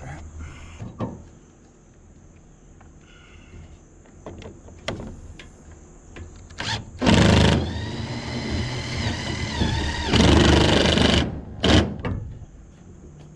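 Power driver driving screws: two loud bursts of running, about seven and ten seconds in, with a motor whine that wavers in pitch between them, and a few knocks before.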